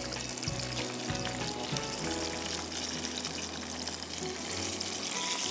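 Flour-coated chicken breast fillets deep-frying in a pan of hot oil: a steady sizzle, with the small clicks of tongs turning them. Background music plays underneath.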